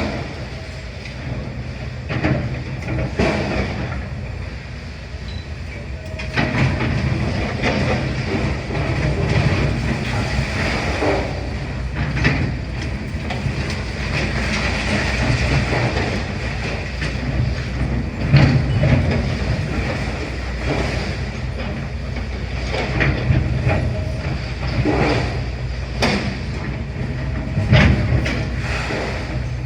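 Demolition excavator working: its engine runs steadily under a string of irregular knocks and clanks of metal and rubble.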